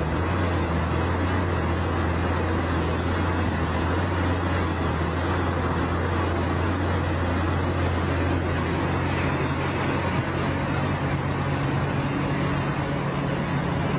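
Old Mercedes-Benz truck's diesel engine running with a steady low drone; its pitch shifts slightly upward about ten seconds in.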